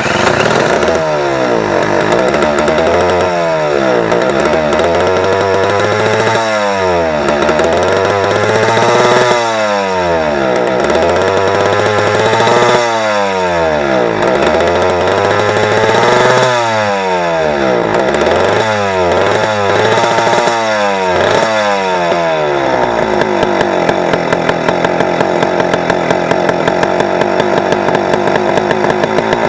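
Suzuki Address V100's two-stroke single-cylinder scooter engine, off the scooter and fired through a bench-wired ignition coil, running: revved up and let fall back about every three seconds, then settling to a steady idle about 23 seconds in. It runs on its first start, a sign the engine itself is healthy.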